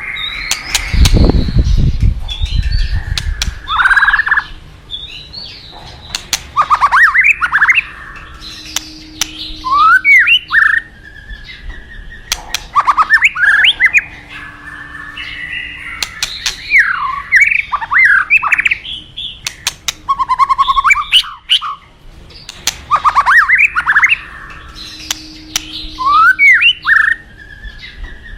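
White-rumped shama (murai batu) singing: loud phrases of quick rising and falling whistles repeated every couple of seconds, with sharp clicking notes between them. A low rumble sounds briefly about a second in.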